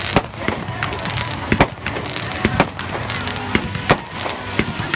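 Fireworks display: aerial shells bursting in an irregular string of sharp bangs and pops, about three or four a second.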